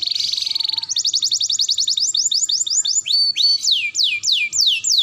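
Canary singing: a fast trill, then rapidly repeated notes that slow down, then a run of about four clear whistles, each falling steeply in pitch.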